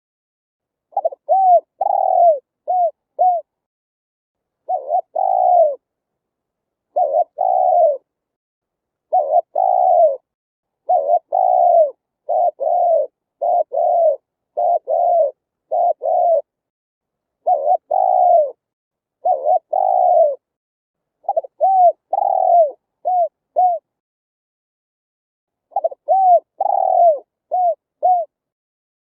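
Spotted dove cooing: phrase after phrase of a few rounded coos, with short silent pauses between the phrases and a longer pause about two-thirds of the way through.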